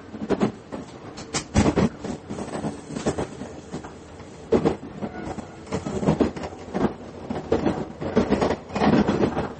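Cabin running noise of a diesel railcar. Wheels knock sharply and unevenly over rail joints above a steady rumble.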